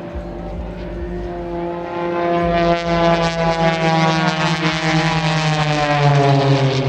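Propeller engine of an aerobatic airplane approaching and passing. It runs with a steady buzzing tone that grows louder about two and a half seconds in, then drops slightly in pitch near the end as it goes by.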